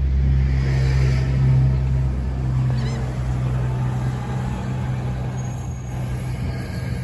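NJ Transit commuter train pulling out, its single-level coaches rolling past with a steady low rumble.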